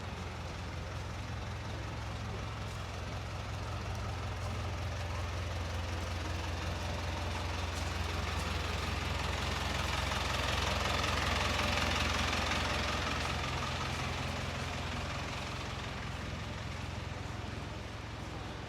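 Heavy vehicle's engine rumbling steadily, with a swell of noise that rises to a peak about two-thirds of the way through and then fades as something passes close.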